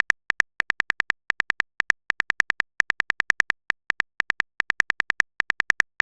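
Synthetic keyboard-typing sound effect of a chat-story app: quick runs of short, high-pitched ticks, about seven a second, with brief pauses between runs, as a message is typed out.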